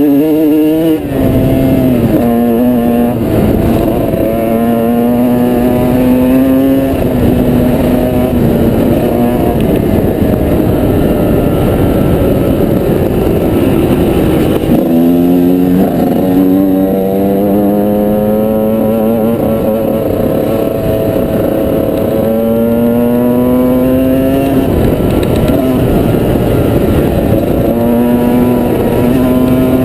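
Off-road motorcycle engine being ridden, its pitch climbing under throttle and dropping sharply at gear changes, about a second in, again shortly after and about halfway through, over a steady rushing noise.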